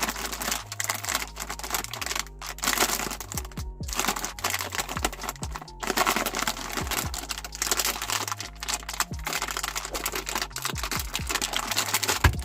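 Crunchy almond cookies being crushed in a meat grinder: dense, continuous crackling and crunching with a few short pauses, over background music with a bass line.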